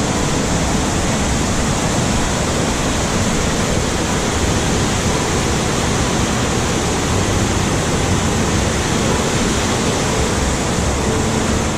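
A waterfall, Panther Creek Falls, pouring steadily: a loud, even rush of falling water.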